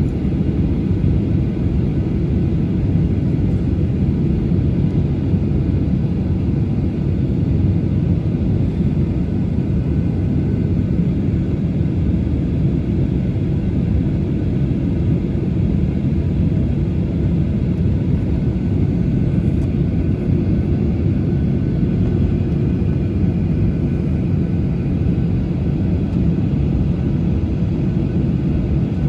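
Boeing 737-800's CFM56 jet engines running at idle, heard from inside the passenger cabin as a steady low rumble with faint higher tones above it.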